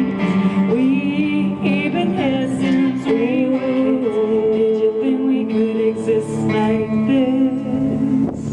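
Two women singing long held notes in harmony, with vibrato, in a folk song.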